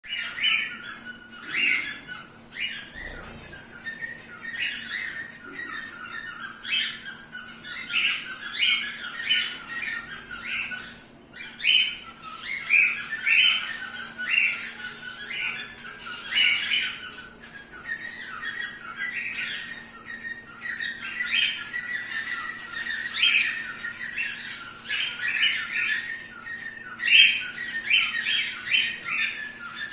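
Zebra finches calling: a continuous chatter of short squawking calls, several a second and overlapping, with a faint steady hum underneath.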